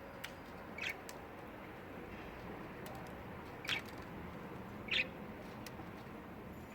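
Budgerigar giving three short, high chirps a second or more apart, with a few faint clicks between them.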